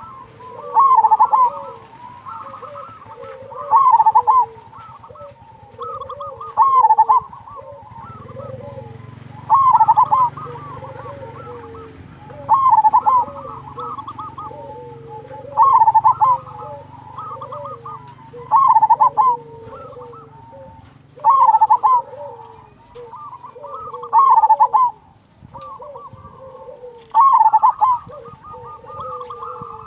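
Zebra dove (perkutut) song: a phrase of quick staccato coos repeated about every three seconds. Under it is a faint low rush of flowing water.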